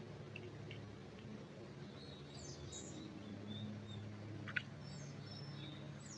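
Small songbirds chirping faintly with short, high calls and trills, most of them in the second half. A single sharp click about four and a half seconds in, over a steady low hum.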